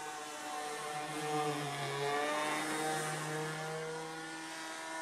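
Glow-fuel engine of a radio-control P-51 model airplane running in flight, a steady buzzing whine. It is loudest about one to three seconds in, with the pitch shifting and dropping a little as it goes around after a waved-off landing approach.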